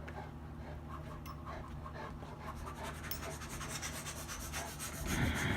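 A dog panting in a quick, even rhythm close by, with a louder burst of breath near the end.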